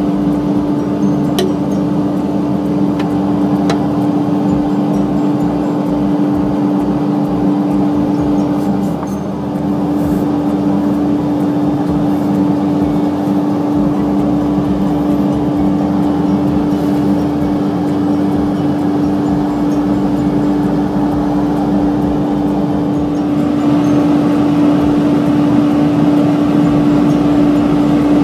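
Woodworking shop machinery running steadily, with a strong unchanging drone. It grows slightly louder a few seconds before the end.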